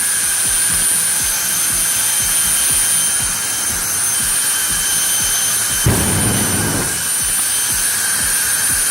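Jet dragster's jet engine running, a steady rushing roar with a high-pitched turbine whine. A brief, louder low burst comes about six seconds in.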